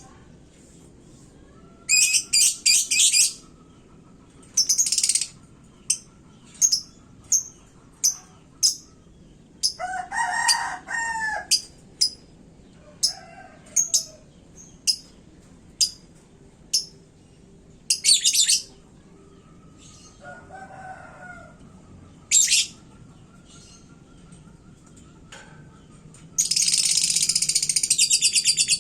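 Lovebird calling in short, shrill, high chirps and brief bursts, then breaking into a long, fast, continuous trill near the end. Another bird gives two lower calls in between.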